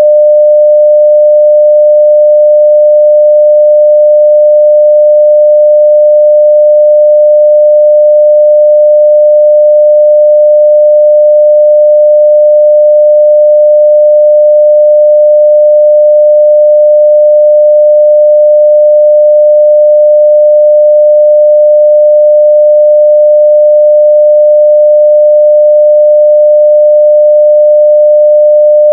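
A 600 Hz sine-wave test tone at full level (0 dB), one steady pure pitch.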